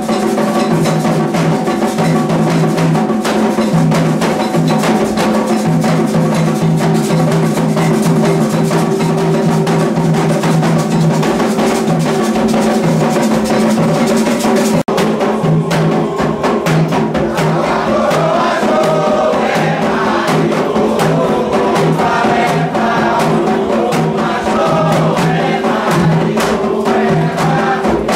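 Candomblé ritual drumming on atabaque hand drums, a dense, driving rhythm. It breaks off for an instant about halfway through, and a few seconds later a group of voices joins in singing over the drums.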